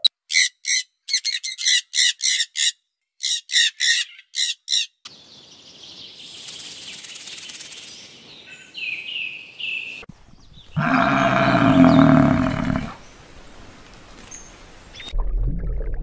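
A run of different animal calls. The first five seconds hold quick groups of short, pitched calls. After that come noisier stretches with a few short gliding calls, then a loud, rough call about eleven seconds in.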